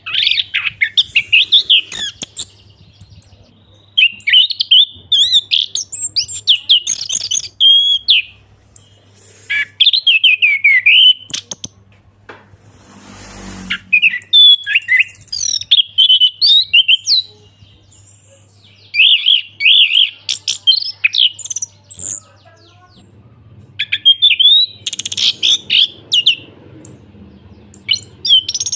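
Orange-headed thrush singing in full song: loud, rapid, varied whistled phrases of one to two seconds with short pauses between them. A faint steady low hum runs underneath, and there is a brief noisy rush about halfway through.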